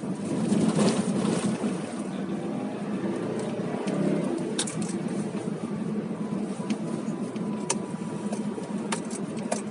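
Car cabin noise while driving on a snowy road: the engine and tyres give a steady hum that is louder a second or so in. A few sharp clicks are scattered through it.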